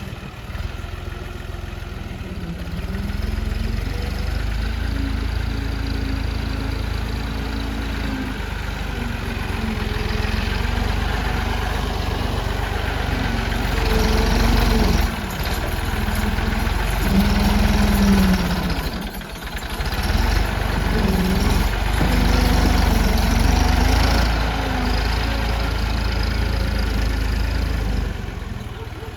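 Diesel tractor engine running, its speed rising and falling several times, with a short drop in level about two-thirds of the way through.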